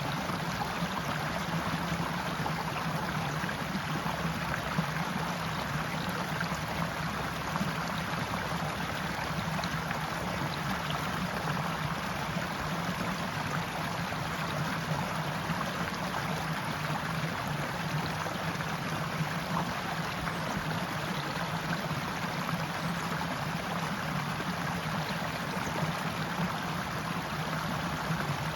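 Forest stream flowing steadily over rocks, an even rushing and gurgling of water.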